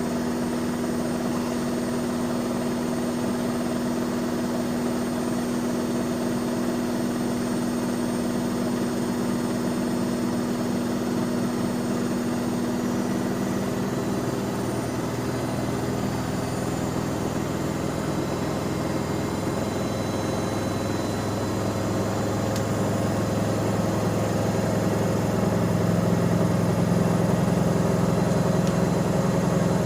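Bauknecht GreenIntelligence Super Eco 6413 washing machine spinning: a steady motor and drum hum whose pitch shifts about halfway through, growing louder in the last few seconds.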